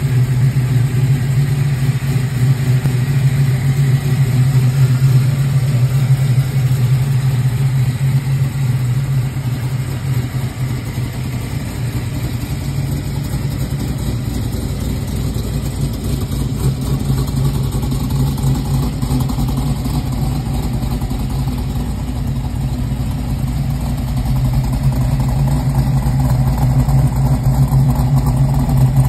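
LS-swapped V8 engine of a 1986 Oldsmobile Cutlass idling steadily, a little louder near the end as the rear of the car and its exhaust come closer.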